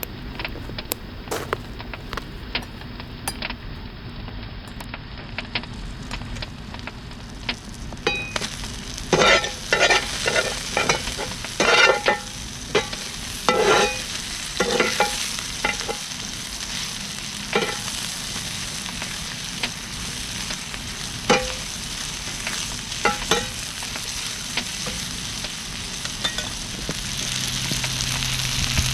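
Food sizzling and frying in a pan over a campfire, with sharp crackling pops. A metal utensil clanks and scrapes against the pan in a flurry of ringing strikes from about 8 to 15 seconds in, with a few more later.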